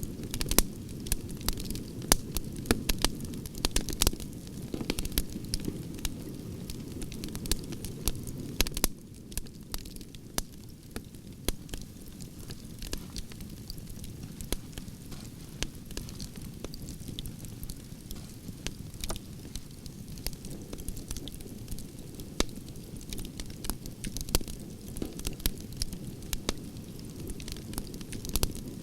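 Campfire of burning logs crackling, with frequent sharp pops and snaps over a steady low rush of flame, which eases slightly about nine seconds in.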